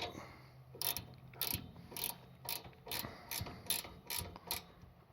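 Ratchet wrench clicking as it tightens the gearbox oil fill plug on a snowblower, a run of quick clicks, two to three a second, that stops near the end.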